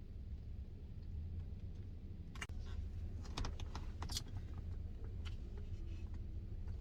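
Eating sounds: scattered small clicks and taps of a spoon against a Blizzard cup and mouth clicks from chewing, starting a couple of seconds in, over a steady low hum.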